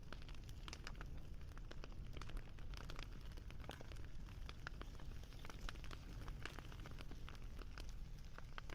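Wood fire crackling: frequent small, irregular pops and snaps over a low, steady rumble.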